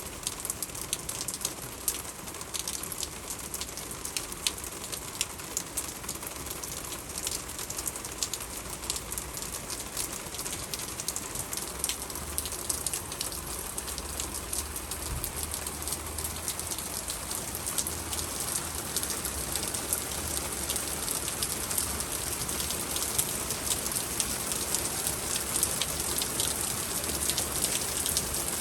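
Rain during a spring thunderstorm, pattering on surfaces with many sharp drop impacts, growing heavier and louder toward the end.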